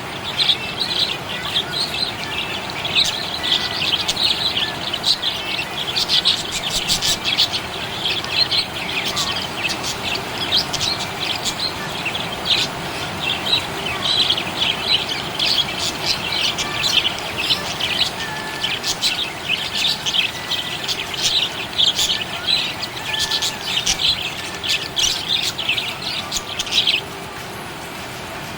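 Budgies chirping rapidly and continuously in a dense, happy chatter that stops suddenly near the end.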